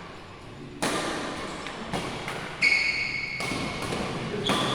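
Badminton play on an indoor court: several sharp racket hits on the shuttlecock a second or so apart, with short high squeaks of shoes on the court floor, the loudest about two and a half seconds in.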